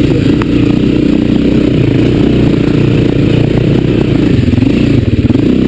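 Dirt bike engine running on a trail, the pitch shifting a little with the throttle, with light clatter and knocks from the bike over rocks and roots.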